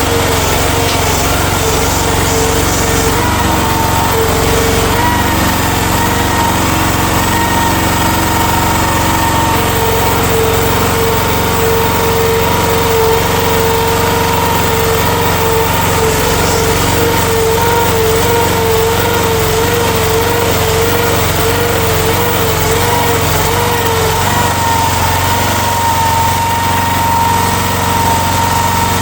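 Future FT15 mini excavator's engine running at a steady speed.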